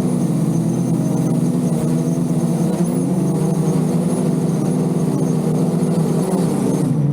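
Several lift rotors of a VTOL drone running together, their pitches weaving up and down against one another as the motors keep adjusting their speed to hold the aircraft steady in strong gusty wind.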